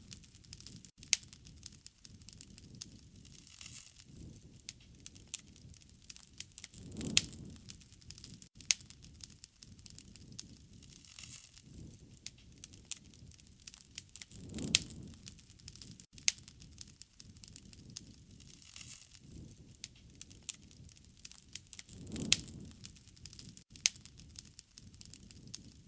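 Wood fire crackling, with frequent sharp pops and snaps and a soft low rush of flame about every seven and a half seconds.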